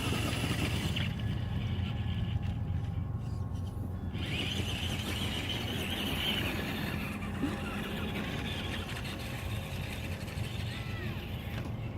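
A motor vehicle running steadily, a low rumble throughout, with a rushing hiss over it for the first second and again from about four to seven seconds in.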